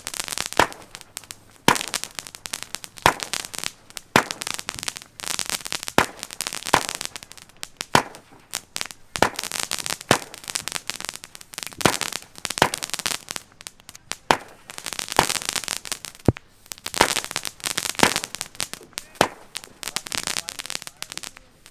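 Consumer firework cake firing shot after shot, with sharp bangs about once a second and crackling between them.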